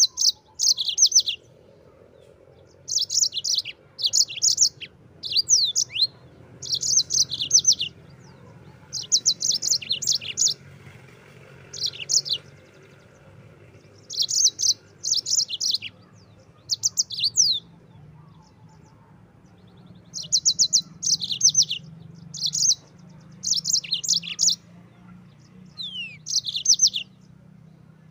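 A yellow-fronted canary (Mozambique bird) singing in short bursts of fast, high trills, each about a second long. Brief pauses separate the bursts, and a few quick falling notes are mixed in.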